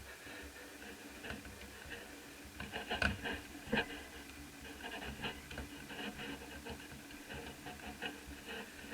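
Light scratching and small clicks of hands working on laptop parts, with a couple of louder knocks about three to four seconds in.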